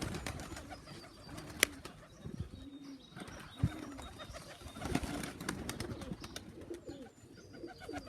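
Homing pigeons cooing at the loft, low rolling coos repeated several times, with a sharp click about a second and a half in.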